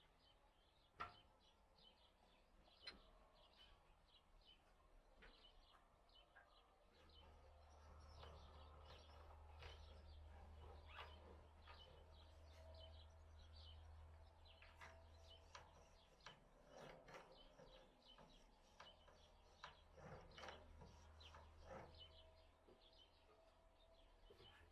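Faint, scattered bird chirps with occasional light clicks, over a low hum that comes in about seven seconds in.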